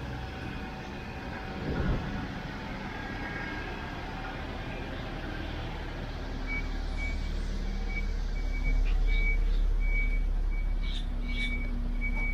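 Jeep Wrangler engine idling with a steady low hum that grows louder toward the rear of the vehicle. From about six seconds in, a short high electronic beep repeats about twice a second. A few light clicks come near the end.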